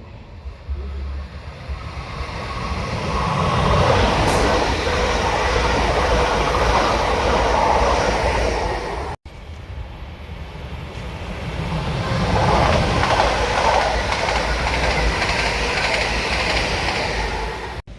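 A passing train builds over a few seconds to a loud, steady run along the track. The sound cuts off abruptly about halfway through, and a second passing train builds up the same way.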